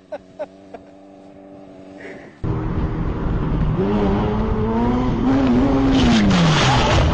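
Faint ticking, then about two and a half seconds in a vehicle engine cuts in loud, its pitch climbing slowly as it revs and then dropping off near the end, with a burst of harsh noise just before it falls.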